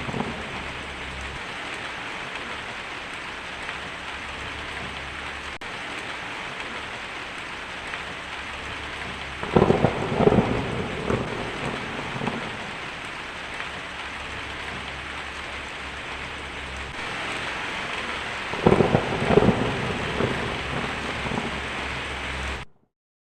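Steady heavy rain hissing, with thunder rumbling twice, about ten seconds in and again near the end. The sound cuts off suddenly to silence just before the end.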